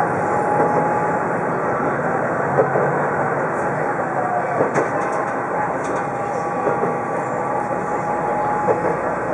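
Diesel railcar running along the line, heard from inside the cab: a steady running rumble with a faint steady whine and a few sharp clicks from wheels crossing rail joints.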